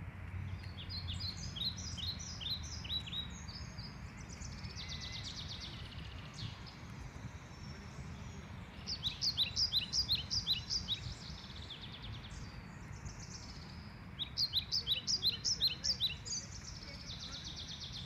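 A songbird singing three phrases of quick, high repeated notes, about four or five a second: the first right at the start, the next about nine seconds in, the last about fourteen seconds in. A steady low rumble runs underneath.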